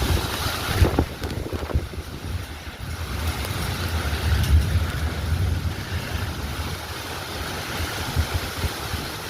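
Strong thunderstorm wind gusting, with gusts buffeting the microphone in a rumbling rush.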